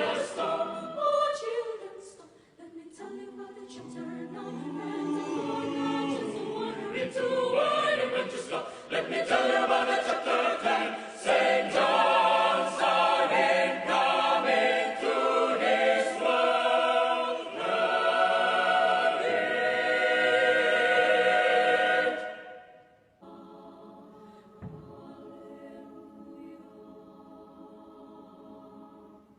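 Mixed youth choir singing a cappella in several parts, growing louder through the passage, then cutting off abruptly about two-thirds of the way through. Quieter steady sustained tones follow.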